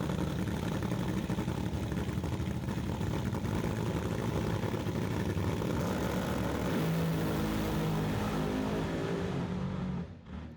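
Loud engine running steadily, with a pitched drone coming up in the second half, then cutting off suddenly near the end.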